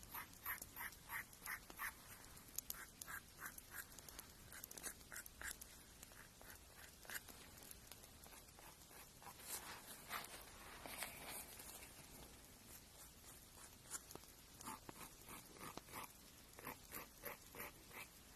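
A nail being filed in short, faint scraping strokes, about three a second, coming in runs with a pause in the middle.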